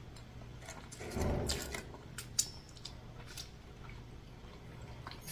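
Close-miked eating sounds of someone chewing a messy fast-food burger: wet clicks and smacks, with a fuller chewing sound a little over a second in.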